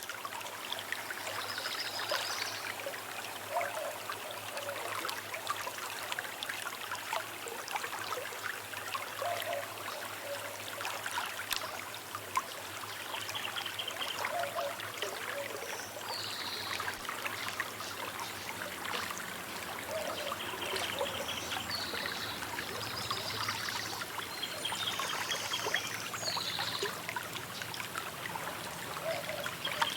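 A small river flowing and trickling steadily, with birds chirping and trilling briefly every few seconds.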